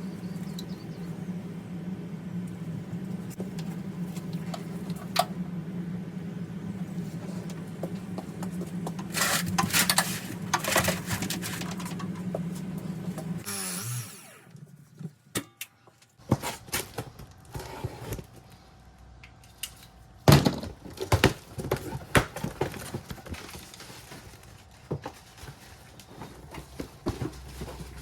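A steady low hum for about the first half, then scattered knocks and clatter of hand tools and pipe fittings being handled during plumbing work.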